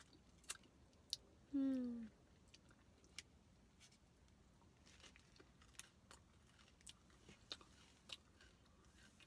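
Quiet biting and chewing of a dark-chocolate-coated crunchy peanut butter bar, with scattered crisp crunches and mouth clicks. A short hummed "mm" comes about a second and a half in.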